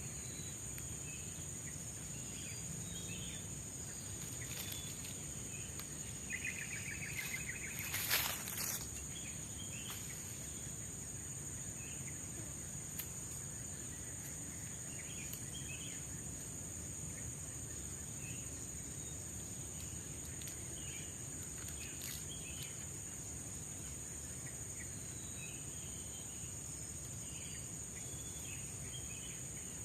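Steady high-pitched drone of forest insects, crickets among them, with scattered short bird chirps. A brief buzzing trill comes about six seconds in, and a couple of sharp knocks about eight seconds in.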